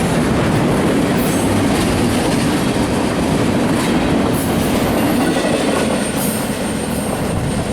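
Freight train cars rolling past, a loud steady rumble of steel wheels on rail. A faint high squeal comes in near the end.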